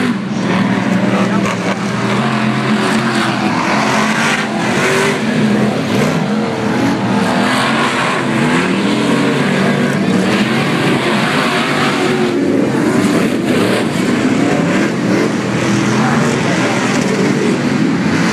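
Several Pro Lights short-course off-road race trucks racing, their engines revving up and down with the throttle and overlapping as they pass.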